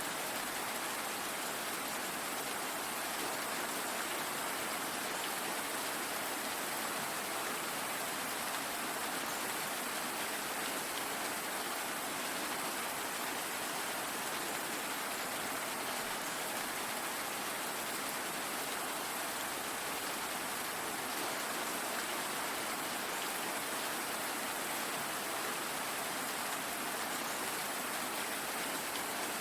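Steady rain falling, an even hiss of many drops with no thunder and no change in intensity.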